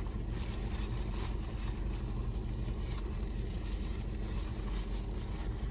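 Steady low hum of a car idling, heard from inside the cabin, with faint irregular crackles of someone chewing food.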